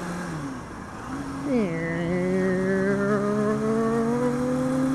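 2006 Kawasaki ZX-6R 636 inline-four engine running under way. Its pitch drops sharply about a second and a half in, as at an upshift, then rises steadily as the bike accelerates, and drops again near the end.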